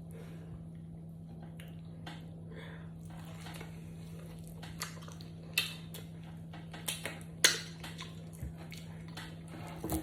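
A person eating yam close to the microphone: chewing with wet mouth clicks and smacks and a few sharper clicks, the loudest about seven and a half seconds in, over a steady low hum.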